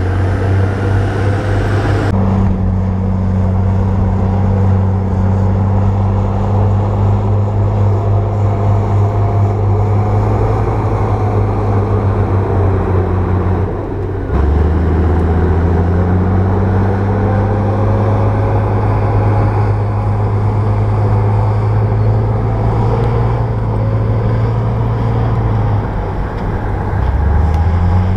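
Bulldozer's diesel engine running steadily under load with a deep, even drone. The engine note drops away briefly about halfway through, comes back, and dips again near the end.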